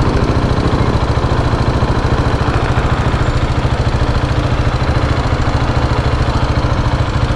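KTM 690's single-cylinder engine idling steadily with an even, rapid pulse.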